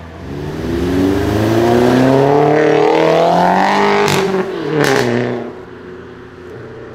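Volkswagen Scirocco accelerating hard away, its engine note rising steadily in pitch for about four seconds. It then drops back at a gear change, with two sharp cracks about a second apart, before fading as the car pulls away.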